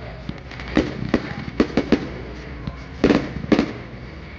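Fireworks display: irregular sharp bangs of exploding shells, sometimes several within a second, the loudest pair about three seconds in.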